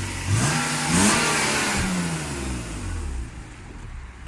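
BMW 328i exhaust as the engine is revved once: the pitch climbs quickly to a peak about a second in, then falls back toward idle over the next two seconds.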